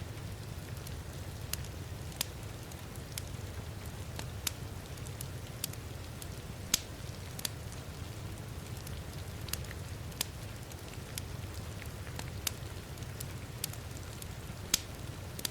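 Wood fire crackling, with irregular sharp pops over a steady low rumble, mixed with steady rain.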